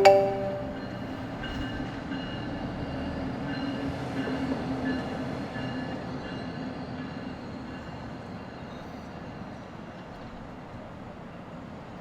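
A marimba-style phone ringtone cuts off just after the start. It gives way to a steady distant rumble with faint held tones that swells a little about halfway through and then slowly fades.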